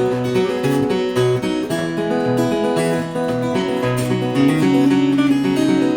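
Acoustic guitar strummed through a chord change, an instrumental passage between sung lines of a folk-style song.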